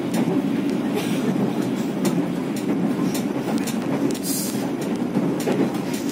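Passenger train coach running along the track, a steady rumble with sharp wheel clicks over rail joints about once a second.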